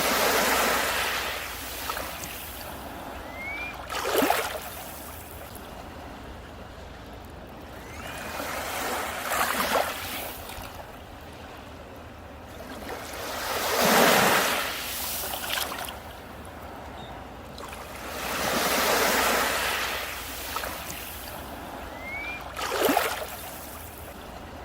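Ocean surf: waves breaking and washing up the beach, one swell every four to five seconds, some ending in a sharper crash.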